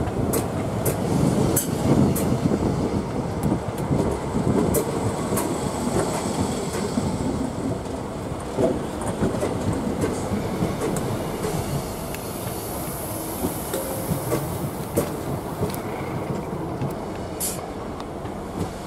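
Class 321 electric multiple unit passing close by at low speed: a steady wheel rumble with sharp clicks as the wheels run over rail joints and points, easing off as the last carriages go by.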